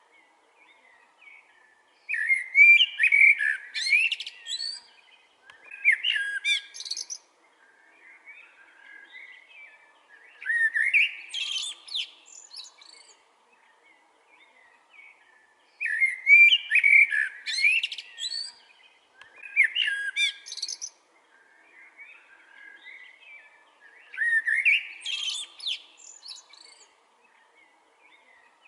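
Blackbird singing: about six warbled phrases of a few seconds each, separated by short pauses filled with softer twittering.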